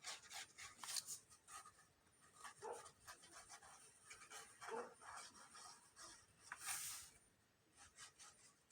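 Faint scratching and rubbing of glue being spread around the edges of a sheet of paper, with light paper handling and a short hiss about seven seconds in.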